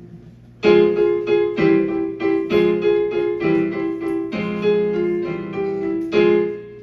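Piano chords played as a song's intro, repeated strikes of the same few chords about once or twice a second, starting about half a second in.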